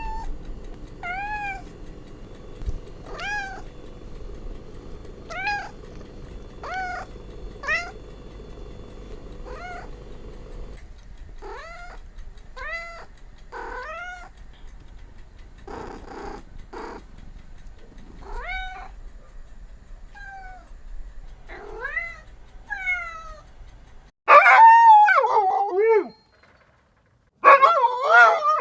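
Cats meowing: a run of short, high mews about once a second, then two longer, much louder meows that fall in pitch near the end.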